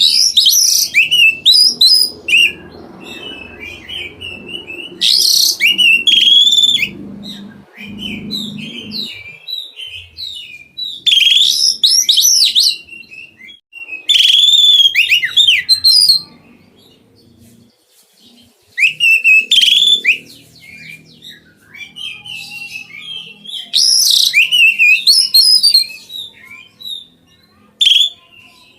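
Oriental magpie-robin (kacer) singing loudly in bursts of rich, varied whistled phrases, each lasting a second or two with short pauses between, about six bursts in all.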